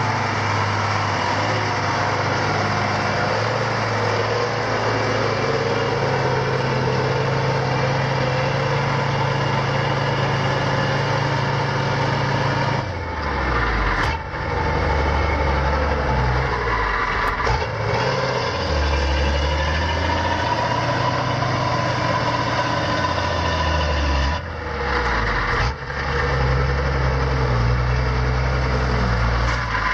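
Heavy vehicle diesel engine running steadily with a low hum. Its pitch changes after sudden breaks about halfway through and again near the end, where clips are cut together.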